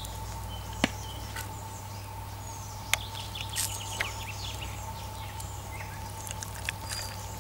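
Birds chirping and calling in short snatches, with a few sharp clicks about one and three seconds in, over a steady low hum.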